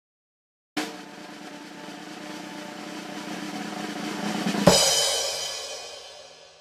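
Snare drum roll starting suddenly and building louder for about four seconds, ending in a sharp crash hit that rings out and fades over the last two seconds.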